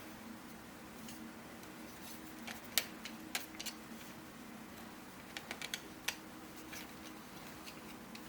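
Light clicks and taps of 3D-printed plastic puzzle pieces being handled and snapped together: a few scattered clicks, the sharpest about three seconds in and a small cluster past the middle, over a faint steady hum.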